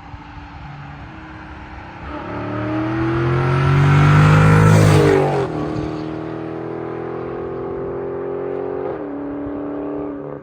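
V8 muscle car on a stock exhaust accelerating hard past, its engine note rising and loudest about four to five seconds in, then dropping in pitch as it goes by. It settles into a steadier drone, with a brief dip and climb near nine seconds like a gear change, and cuts off suddenly at the end.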